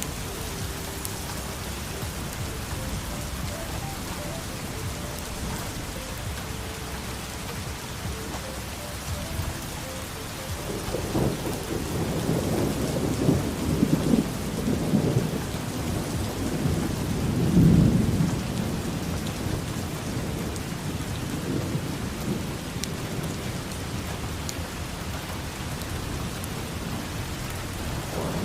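Steady rain falling, with a long low rumble of thunder that builds about a third of the way in, peaks past the middle and rolls away.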